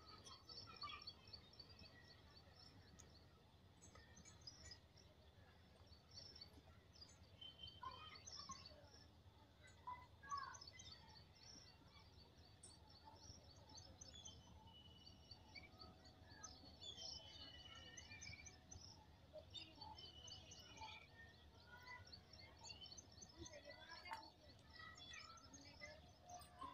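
Faint birdsong: many small birds chirping and twittering with quick high trills, over a low steady background rumble.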